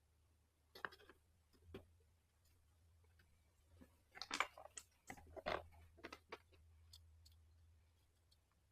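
Faint clicks and rattles of small parts and tools being handled while a weed eater's electric start is taken apart for repair. A few clicks come about a second in, and a denser cluster runs from about four to six and a half seconds in.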